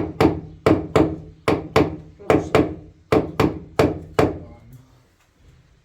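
A steady series of sharp knocks, like repeated hammer strikes, falling in pairs at about three a second, each with a short ringing decay; they stop about four and a half seconds in.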